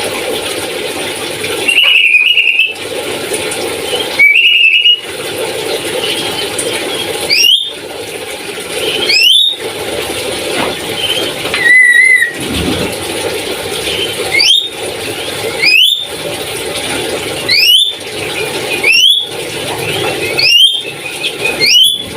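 Parrot giving loud, repeated squealing calls. Two longer calls come first, then a run of short, sharply rising squeals, one every second or two.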